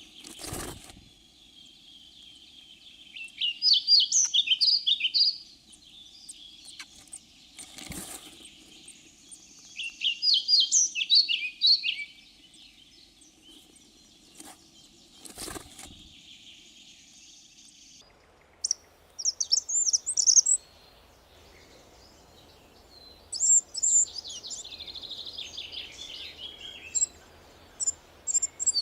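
Songbirds singing: short phrases of rapid high chirping notes every few seconds, with three brief sharp knocks in the first half.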